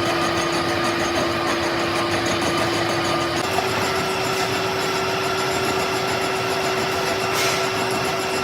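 Metalworking machine running steadily with a constant hum, its pitch stepping slightly about three and a half seconds in, and a brief hiss a little before the end.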